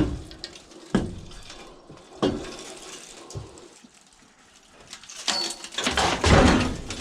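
Scrap metal being handled: a few sharp knocks in the first couple of seconds, then a louder scraping clatter near the end.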